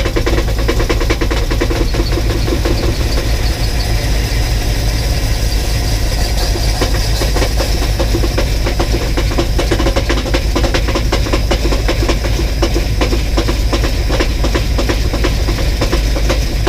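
1984 box truck's engine idling steadily, with a fast, even ticking that the owner puts down to an exhaust leak and a knock he can't quite place. It is running on 15-year-old fuel.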